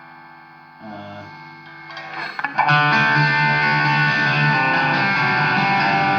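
Electric guitar played through a Marshall AFD100 valve head with its gain turned far down: a few quiet picked notes, then about two and a half seconds in a loud chord struck and left ringing. The tone is fairly clean, with some crunch still in it.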